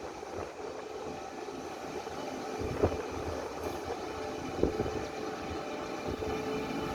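Taiwan Railways Tze-Chiang limited express train pulling out of the station: a steady running rumble with a faint humming tone, slowly growing louder, with two sharp clunks about three and four and a half seconds in.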